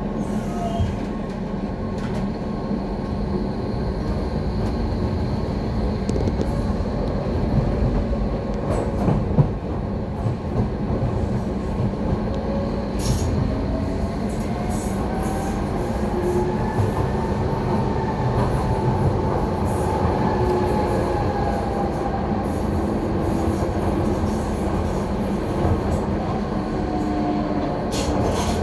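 Docklands Light Railway B07 train running on its track, with a steady rumble of wheels on rail heard from inside the front of the car. A motor whine rises in pitch and then falls again through the middle of the stretch, and a few sharp knocks come from the wheels passing over rail joints or points.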